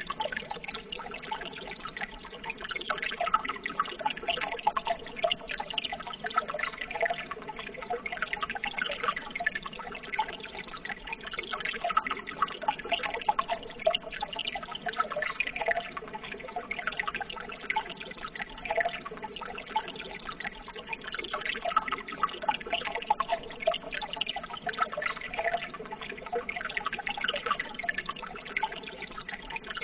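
Running water trickling and splashing continuously, an even babble of small splashes without a break.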